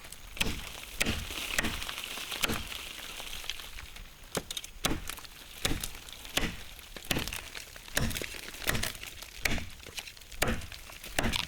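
A blade chopping into wood: a steady run of sharp cracking strikes, roughly one every half to three-quarters of a second.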